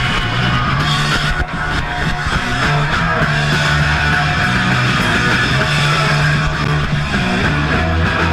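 Punk band playing live: loud electric guitar with bass and drums.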